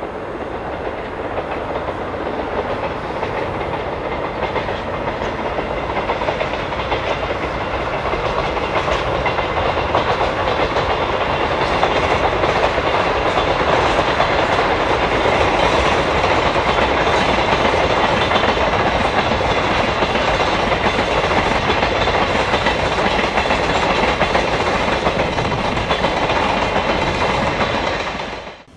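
Freight train passing through a station without stopping, its wagons' wheels clattering over the rail joints in a long continuous run. The sound grows louder over the first ten seconds or so, holds steady while the train goes by, and cuts off abruptly near the end.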